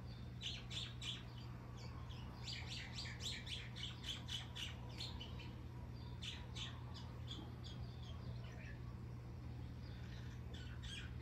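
Songbirds chirping in quick runs of short, high notes, coming in several bursts, over a steady low hum.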